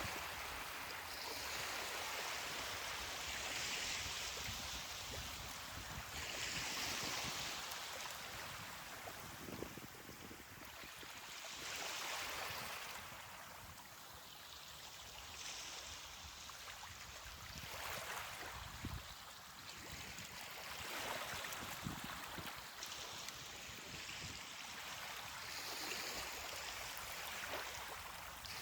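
Ocean waves washing onto a beach, a steady hiss that swells and eases every few seconds as each wave comes in.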